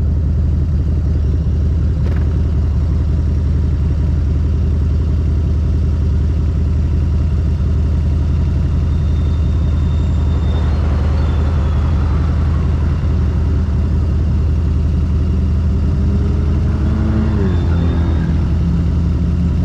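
Harley-Davidson motorcycle engine running steadily under way, a loud, deep, even drone; near the end an engine tone glides down in pitch.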